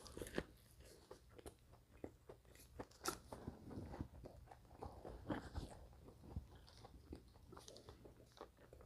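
Faint close-miked eating: chewing with irregular small crunches and wet mouth clicks.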